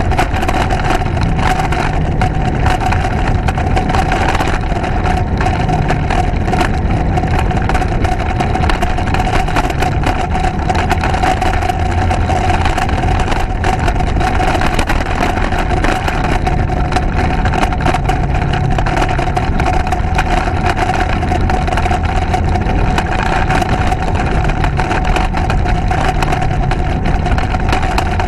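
Motorcycle on the move at a steady pace: the engine runs on evenly under a constant rushing noise and a steady hum, with no change in speed.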